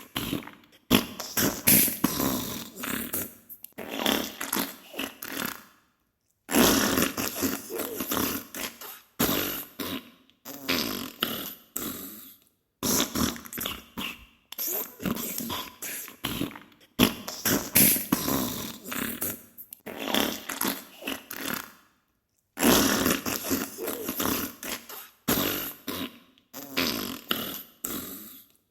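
Diarrhea sound effect: farting in a continual run of ragged bursts, each about a second long, broken by a few brief silences.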